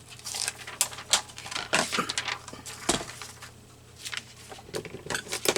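Paper and small craft items being handled on a tabletop: irregular rustles, taps and clicks.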